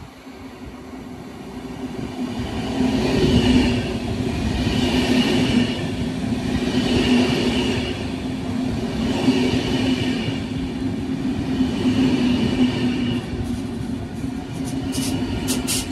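DSB train of ABs coaches with a Litra EB (Siemens Vectron) electric locomotive going by on the rails. The sound builds over the first few seconds into a steady rumble with a low hum and a brighter swell about every two seconds, and sharp clicks come in near the end.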